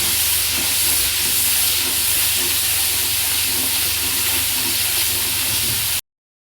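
Onion and ginger-garlic paste sizzling as it fries in ghee and oil in a kadai, a steady hiss that cuts off abruptly to dead silence about six seconds in.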